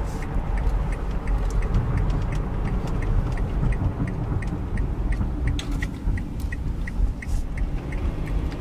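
Steady low road and drivetrain rumble inside the cabin of a 2012 Kia Sorento SX on the move, with the turn-signal indicator ticking evenly about three times a second.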